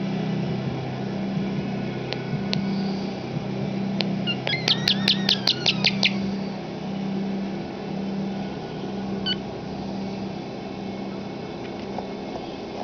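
Starling calling between its talking phrases: a few short chirps, then about four to six seconds in a rapid run of about eight clicks over a falling whistle. Underneath, a steady low hum pulses on and off.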